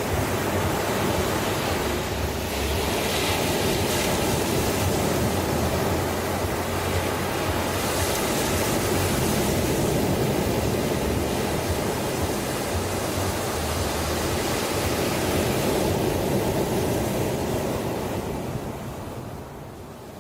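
Ocean waves washing onto shore in a steady, continuous surf, with gentle swells in level; near the end one wash fades away.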